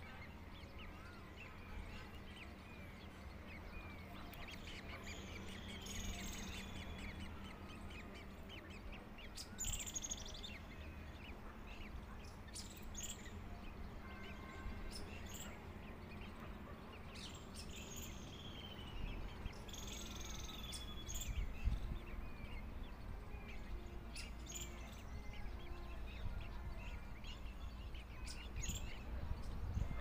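Scattered bird chirps and short calls, some of them gliding in pitch, over a steady low background rumble.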